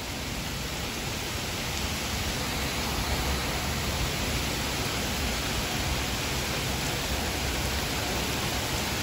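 Heavy rain pouring down, a steady hiss that grows slightly louder over the first couple of seconds.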